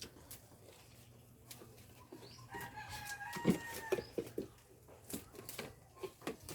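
A rooster crowing once, a held call of about a second and a half near the middle, with scattered short knocks and clatter around it.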